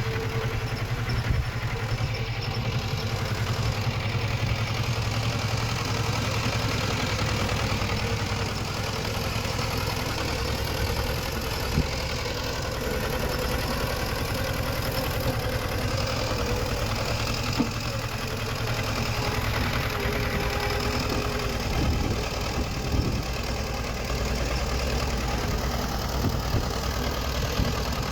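Diesel engine of earthmoving machinery running steadily, with a few short knocks and clanks now and then.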